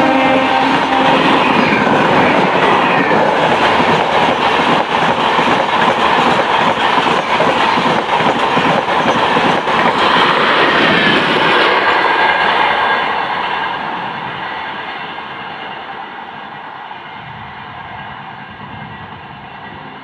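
An express train's coaches rushing past at high speed, with a loud rolling roar and fast clickety-clack of the wheels over the rail joints. About two-thirds of the way in the last coaches go by, and the sound dies away steadily.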